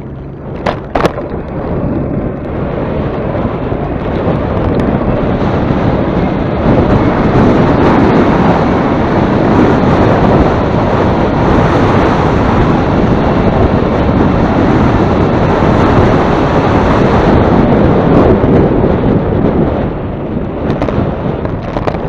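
Strong wind buffeting the microphone: a loud, rumbling rushing noise that builds over the first several seconds and eases slightly near the end, with two sharp clicks about a second in.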